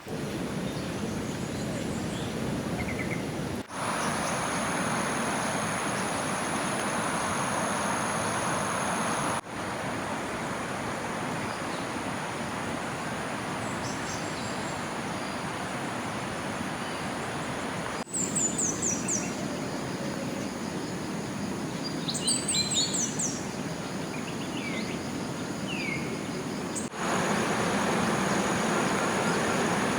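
Tropical forest ambience: a steady rush of water under a constant high insect drone. Birds chirp in quick falling series, twice in the second half. The background jumps abruptly in level a few times.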